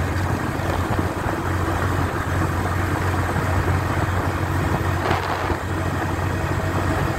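Honda Biz's single-cylinder four-stroke engine running steadily in third gear at cruising speed, with wind noise on the bike-mounted microphone.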